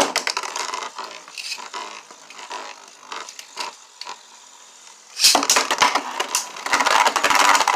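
Beyblade Burst spinning tops, Genesis Regalia and Turbo Achilles, launched into a plastic stadium: a loud launch at the very start, then the tops spinning and scraping with scattered clicks. About five seconds in comes a dense, rapid rattling as the tops clash again and again.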